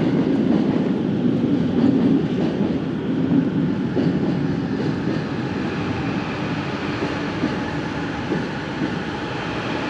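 A train rumbling past, loudest at the start and easing off gradually, with a faint high whine coming in over the second half.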